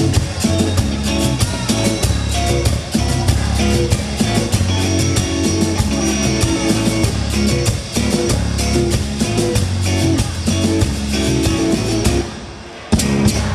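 Live rock band playing an instrumental passage with guitar and drum kit over a steady beat. The band drops out briefly near the end, then crashes back in.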